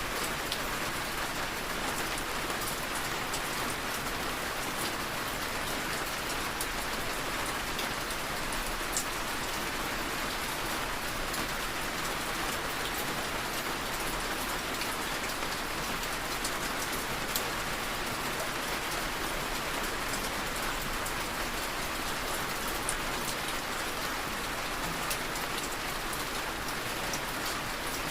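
Steady rain tapping on a window: an even hiss with scattered sharp drop ticks, unchanging throughout.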